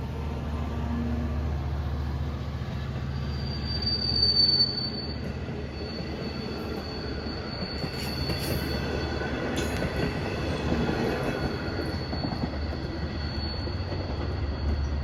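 Diesel-hauled LIRR commuter train rolling through the station with a steady low rumble. A high-pitched wheel squeal starts a few seconds in, is loudest soon after, and carries on, with a few rail clicks around the middle.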